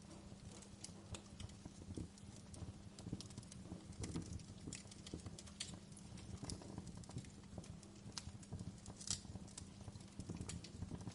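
Wood fire burning in a fireplace: soft crackles and pops at irregular intervals over a low rumble, with a sharper pop about nine seconds in.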